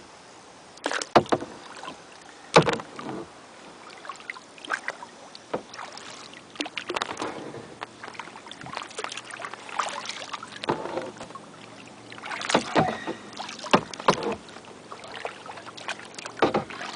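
Kayak paddle splashing in lake water, stroke after stroke at an uneven pace, with water dripping and sloshing between strokes, paddled one-handed. The loudest splashes come about a second in, near three seconds, and around twelve to fourteen seconds.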